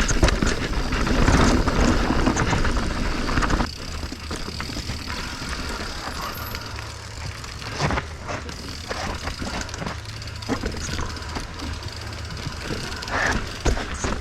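Mountain bike rolling down a rocky technical trail: tyres rumbling over rock and roots, with the frame, chain and components rattling and knocking on each bump. The noise is loudest for the first four seconds, then continues quieter with scattered knocks.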